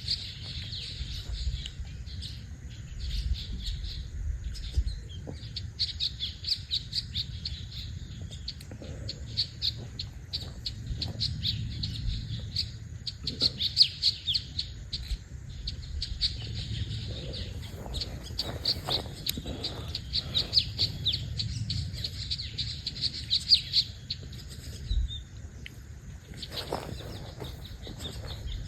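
Several songbirds chirping and singing in quick runs of short, high notes, with a low steady rumble underneath.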